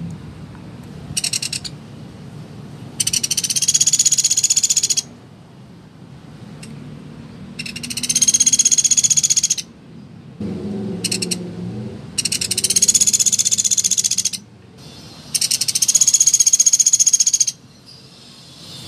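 Pelatuk beras woodpecker giving rapid rattling trills, each about two seconds long, repeated several times with a few short bursts between. A lower-pitched background sound rises for about two seconds near the middle.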